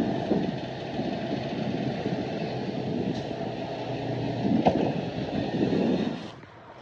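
Heavy earthmoving machine's diesel engine running steadily, with a sharp clank about two-thirds of the way through. The sound drops away abruptly near the end.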